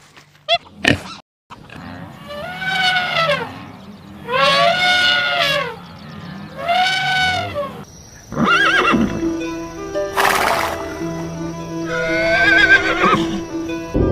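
An animal calling three times, each a drawn-out cry that rises and then falls in pitch, followed by further animal cries over music.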